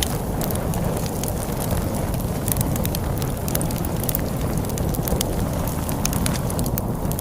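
Log fire crackling with frequent sharp pops and snaps over a steady low rush of storm wind.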